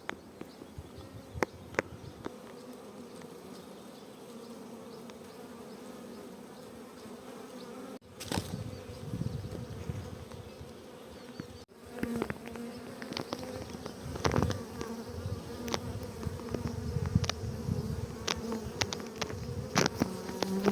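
A honeybee swarm clustered on an oak tree, buzzing with a steady hum. In the second half come scattered knocks and crackles.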